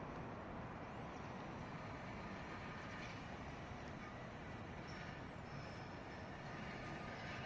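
Steady outdoor background noise with a thin, very high-pitched whine that rises in about a second in, holds for about four seconds, falls away, then comes back briefly before fading near the end.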